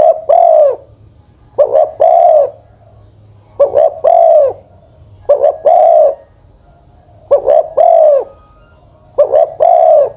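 Spotted dove cooing, a captive decoy bird over ten years old: six repeated phrases about every two seconds, each a short note followed by a longer arched coo.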